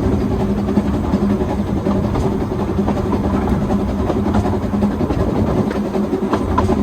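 Narrow-gauge train hauled by a Hunslet quarry steam locomotive, running steadily: a continuous rumble from the train on the track with a steady hum and light scattered clicks.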